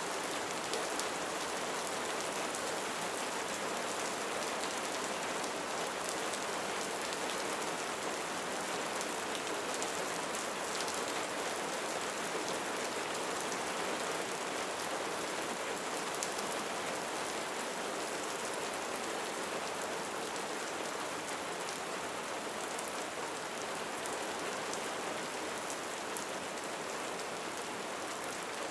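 Steady rain falling on a roof, a dense even patter with scattered individual drop ticks.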